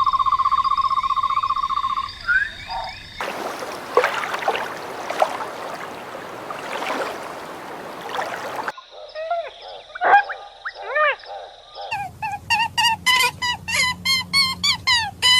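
A string of different animal calls cut one after another: first a fast, even trill for about two seconds, then a noisy stretch with scattered clicks, then a few chirps, and near the end rapid repeated calls at about three a second.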